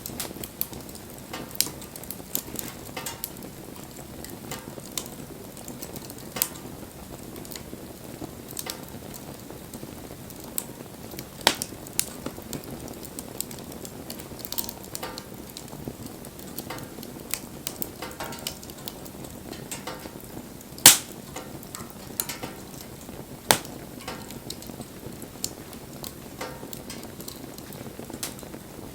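Wood bonfire crackling: a steady low hiss with irregular sharp pops, a few much louder than the rest.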